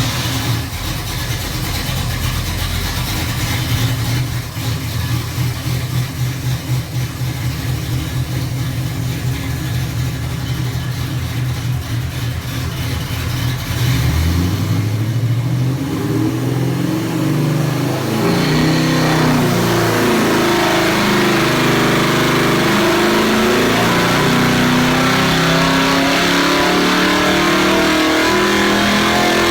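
Pontiac 461 cubic-inch stroker V8 with FAST throttle-body fuel injection, running on an engine dyno. It idles steadily for about 14 seconds, revs up, and from about 18 seconds in runs hard under load in a dyno pull, louder with its pitch climbing.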